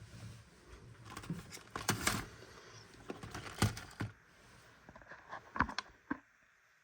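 Irregular light clicks and knocks of something being handled, a few sharper ones around the middle, then it goes almost silent near the end.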